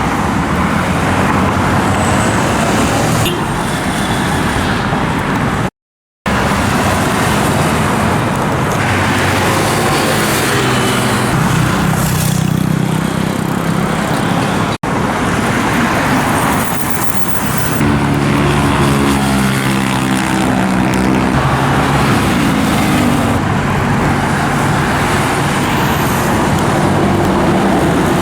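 Busy road traffic, mostly motorcycles with some cars, running past steadily; engine notes swell as vehicles pass, most clearly in the middle and the second half. The sound cuts out for about half a second near six seconds in.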